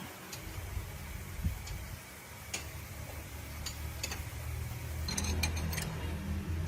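Scattered light metallic clicks and ticks, with a quick run of clicks about five seconds in, over a low steady mechanical hum that grows louder near the end.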